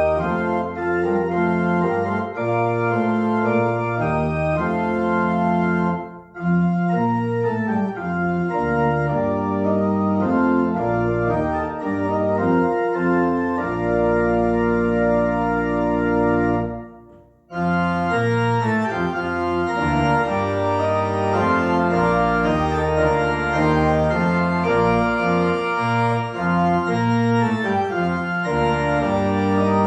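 Organ postlude: sustained chords that change step by step, with two brief breaks between phrases, about six seconds in and again about seventeen seconds in.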